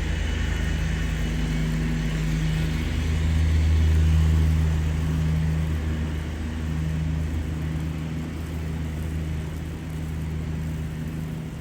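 A motor vehicle's engine running close by: a steady low hum that swells about four seconds in and then slowly eases off, with road hiss fading away after the first few seconds.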